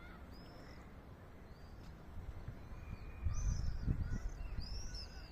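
Small birds chirping: short high arched chirps, a few at first and then about two a second from about three seconds in. Under them a low rumble on the microphone swells at the same point.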